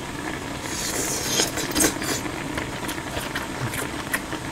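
Close-miked chewing of egg-wrapped gimbap: wet mouth sounds and many short sharp clicks, starting with a brief hiss about a second in. Underneath runs the steady low bubbling of a pot of ramyeon boiling on a portable burner.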